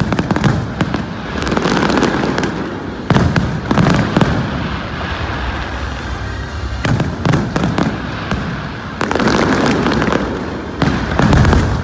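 Aerial firework shells bursting one after another, booms with crackling, coming in loud clusters with brief lulls around five and eight seconds in.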